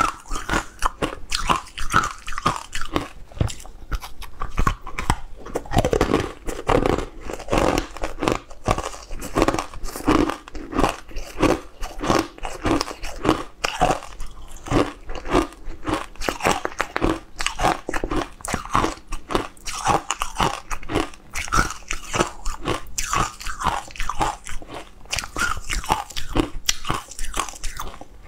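A person biting and chewing mouthfuls of cocoa-dusted chocolate cake, a steady run of eating sounds about two to three times a second.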